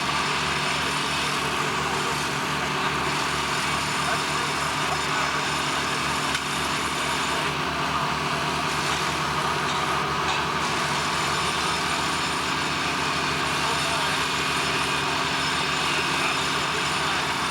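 Heavy machinery running steadily: a continuous drone with a fast low throb and a few steady hums, like an engine under constant load.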